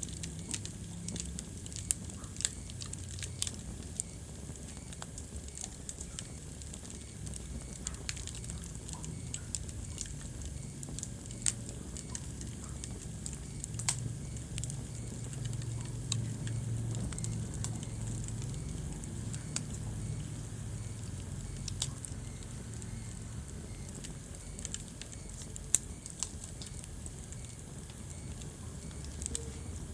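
Wood fire burning in a fireplace, crackling with sharp pops at irregular intervals over a low steady rumble; one pop near the end stands out as the loudest.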